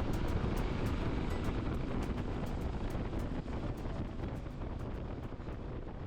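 Wind buffeting the microphone on a moving motorcycle over a low rumble, with a quick run of faint ticks; the sound slowly fades down in the second half.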